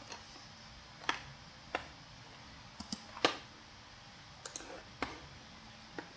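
Computer mouse clicking: about eight short, sharp clicks at irregular intervals, the loudest a little past three seconds in.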